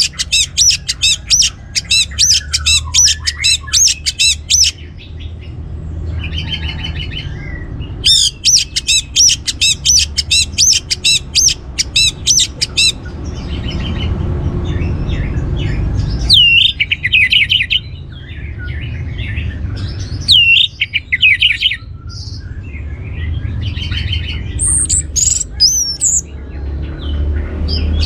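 Orange-headed thrush calling in its 'cor' style. It gives a fast series of sharp, high, evenly repeated notes in two runs of about five seconds each, then shorter swooping phrases in the second half. A steady low hum runs underneath.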